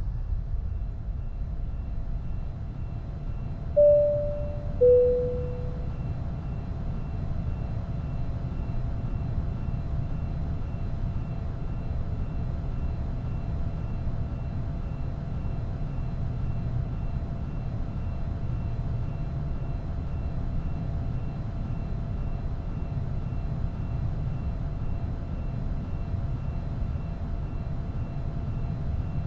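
Airliner cabin ambience: a steady low rumble of the jet engines in flight. About four seconds in, a two-tone cabin chime sounds, a high note followed by a lower one.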